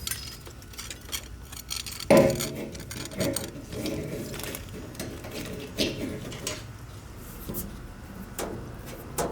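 Scattered clinks and knocks of hard objects being handled, the loudest about two seconds in, with a few lighter ones after.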